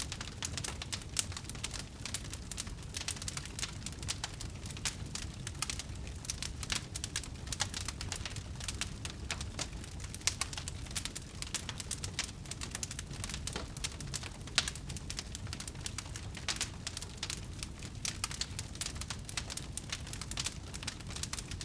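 Wood fire crackling in a fireplace: dense, irregular snaps and pops over a low rumble of flames, with one louder pop about two-thirds of the way through.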